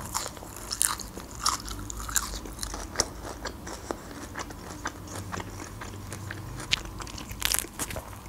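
Close-miked chewing of lahmacun, a thin crisp Turkish flatbread topped with minced meat: wet mouth sounds and crunches of the crust, with a few sharper crackles near the end.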